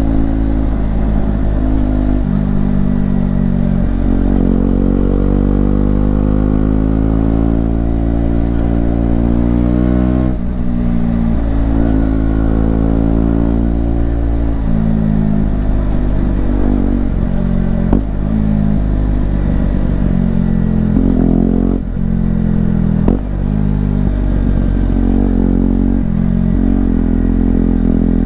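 KTM Duke 125's single-cylinder four-stroke engine under way, revs climbing and falling. Its note rises steadily for several seconds, drops sharply about ten seconds in, then goes through a series of shorter climbs and quick drops in the second half.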